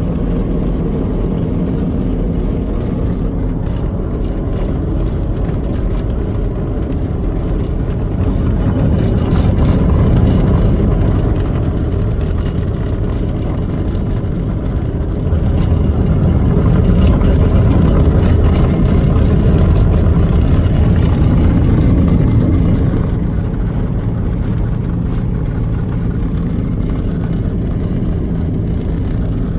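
Pulsar light aircraft's engine running steadily with propeller and wind noise. Power comes up about eight seconds in, eases back, then rises again for several seconds in the middle before settling.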